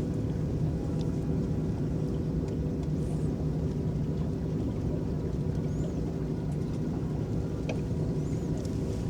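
Electric boat running steadily on a lake: a low, even motor hum over the wash of water, with a few faint high chirps now and then.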